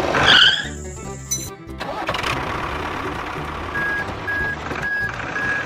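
A truck engine-start sound effect over background music, followed in the second half by four short evenly spaced beeps, about two a second, like a reversing alarm.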